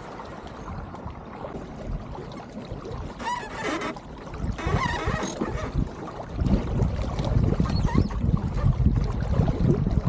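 Wind buffeting the microphone aboard a small sailing yacht under way, with water washing along the hull; the low rumble grows louder after about six seconds. Between about three and five seconds in, a few short high calls with a bending pitch.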